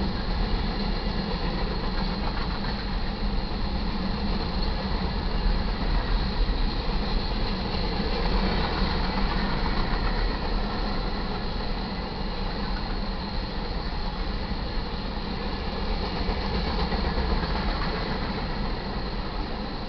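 Covered hopper cars of a freight grain train rolling past, a steady, unbroken noise of steel wheels on the rails.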